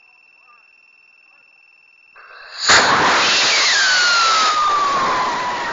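Rocket motor igniting about two seconds in: a brief hiss, then a sudden loud rushing roar that slowly fades near the end, with a whistling tone falling steadily in pitch through it. Crickets chirp steadily before the ignition.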